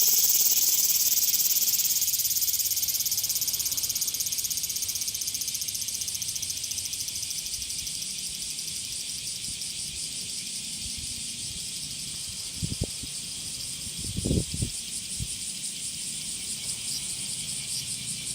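A chorus of cicadas keeps up a dense, pulsing high buzz that is loud at first and slowly fades. A couple of brief low knocks come about two-thirds of the way through.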